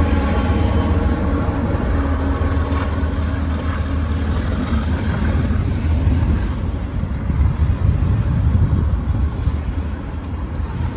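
CSX diesel locomotive passing close by, its engine drone fading over the first few seconds, followed by the steady low rumble of double-stack container cars rolling past on the rails.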